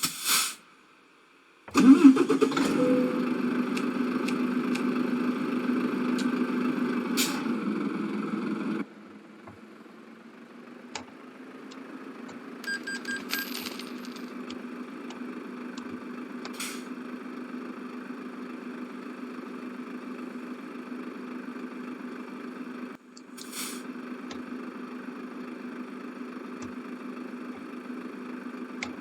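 A vehicle engine starts about two seconds in and then runs with a steady hum, dropping to a quieter, even running sound after about nine seconds.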